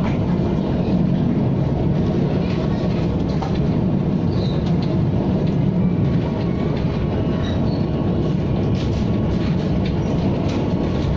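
KTM ETS electric multiple-unit train running along the line: a steady low rumble with faint scattered clicks.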